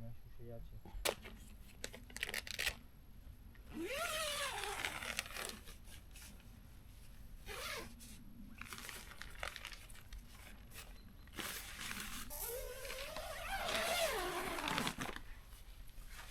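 Nylon tent fabric rustling and crinkling as a tent is pitched, with scattered clicks and two drawn-out squeals that rise and then fall in pitch, about four seconds in and again from about twelve seconds.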